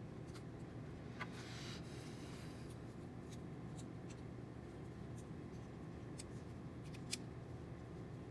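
Faint small clicks and a short scraping rustle of hand work on small wire connections, with a steady low hum underneath.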